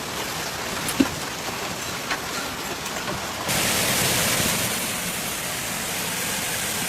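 Rain falling steadily, with a single sharp knock about a second in. About three and a half seconds in the sound switches abruptly to a louder, hissier downpour.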